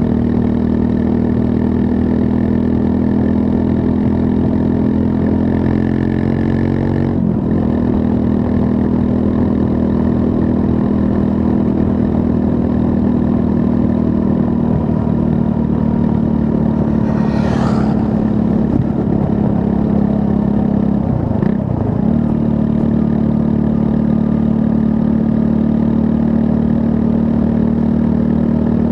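Triumph Scrambler 400 X's 398 cc single-cylinder engine running at a steady speed under way. Its note dips briefly and recovers twice, about a quarter and three quarters of the way through, with a short hiss a little past the middle.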